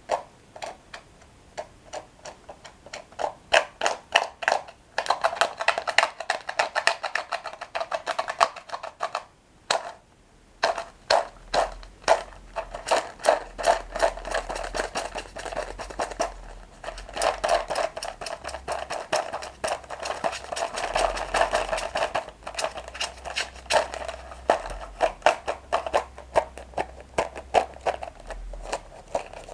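Close-miked crunching and chewing of toasted breadsticks with cocoa cream: a dense run of crisp crackles and clicks, with a short pause about a third of the way in.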